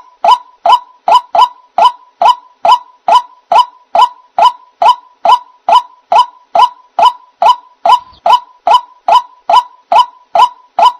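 White-breasted waterhen (ruak-ruak) giving a loud, monotonous series of short 'kwak' calls, evenly repeated about two and a half times a second.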